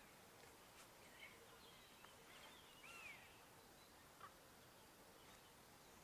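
Near silence: faint room hiss with a few faint bird chirps, the clearest about halfway through.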